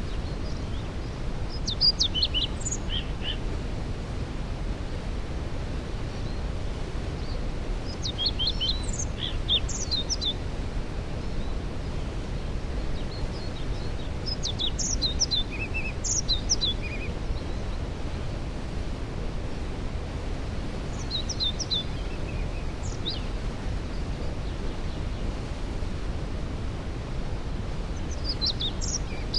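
Steady rushing roar of a waterfall, with a songbird singing a short phrase of quick descending notes about every six seconds.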